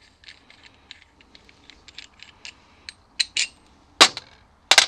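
Steel tools and engine parts being handled: light metallic clicks and taps, then four loud metal clanks in the last two seconds.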